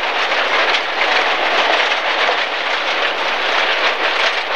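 Inside a Rally First MG ZR at speed on a gravel stage: a steady loud rush of tyres on loose gravel, with stones pattering against the underbody in quick ticks.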